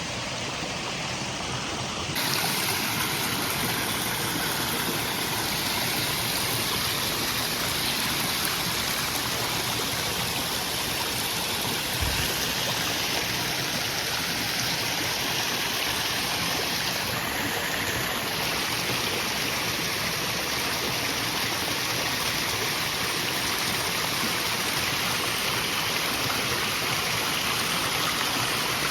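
Steady rush of flowing water, such as a stream or waterfall, that grows a little louder about two seconds in.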